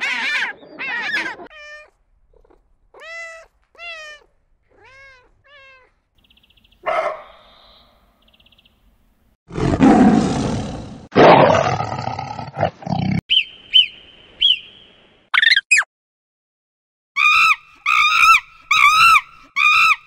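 A string of animal calls: an African penguin braying in short pitched calls at the start, with fainter falling calls after. About ten seconds in, a lion's roar, two long rough blasts and the loudest sound, is followed by short high squeaks and, near the end, a fast run of repeated high calls.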